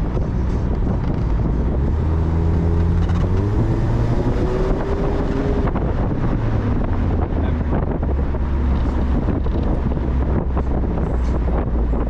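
Mazda Miata's four-cylinder engine running while driving, with wind buffeting the microphone. The engine note rises for a few seconds about two seconds in, as if accelerating.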